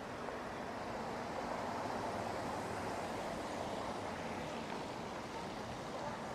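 Steady city street noise: an even wash of distant traffic and urban hum.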